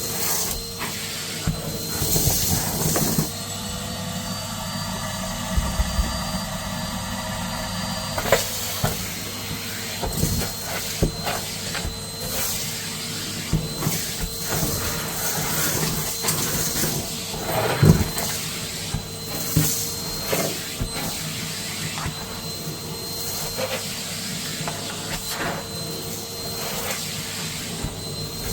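Vacuum cleaner running steadily, with a constant motor whine and scattered crackles and clicks of debris being sucked up. For about five seconds, starting about three seconds in, the whine lifts slightly and a harsher buzzing tone joins it.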